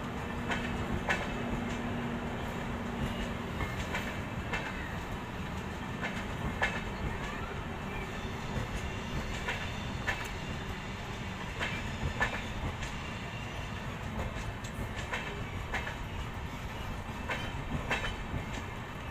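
Passenger train coaches rolling past, a steady rumble broken by sharp clicks as the wheels clatter over rail joints.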